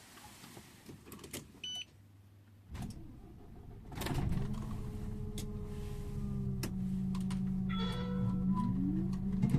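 Scania InterLink bus standing quietly with a few clicks and a short tone, then its drivetrain noise rises about four seconds in and runs steadily, the pitch climbing near the end as the bus pulls away and accelerates.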